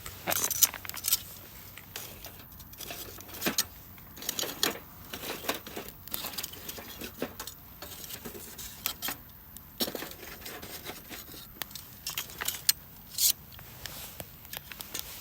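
Gear being handled: irregular light metallic clinks and rustles, some sharp and close, coming every second or so.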